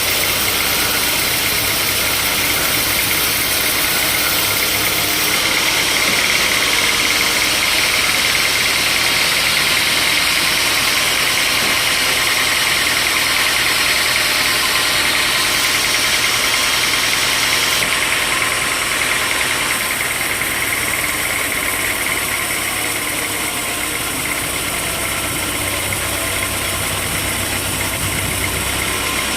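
Sawmill saw running through a log: a steady, loud mechanical noise with a strong high-pitched whine over a low machine drone, easing slightly about two-thirds of the way through.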